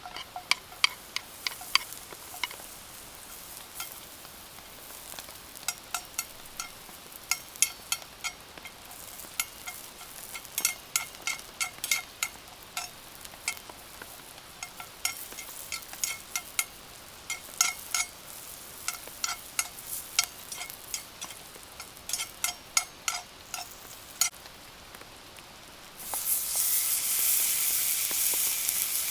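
Hot oil in a frying pan spitting and popping, with sharp, irregular pops. About 26 seconds in, food goes into the pan and a loud, steady sizzle starts.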